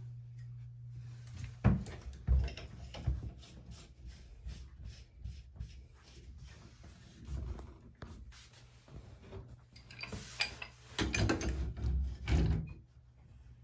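Handling of tap parts and tools: scattered knocks, clatter and scraping, busiest a couple of seconds before the end.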